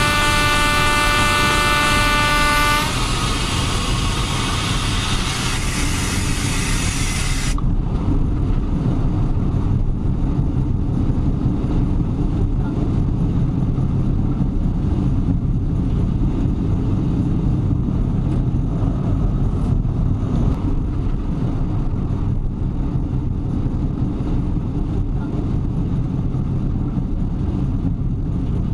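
Train horn blowing a steady chord for about the first three seconds, then a loud hiss of air as the emergency brake is applied, cutting off at about seven seconds. After that the train's steady rolling rumble runs on as it slows under braking.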